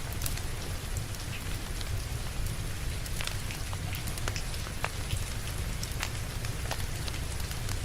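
Steady rain with a low rumble underneath, and scattered sharp crackles and pops from a wood fire burning in a fireplace.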